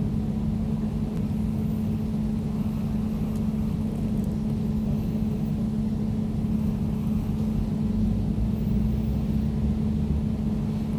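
Air conditioner running steadily: a low, even rumble with a constant hum.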